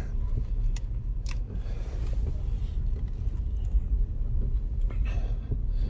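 A Ford Focus engine idling, a steady low hum heard from inside the cabin, with two light clicks about a second in.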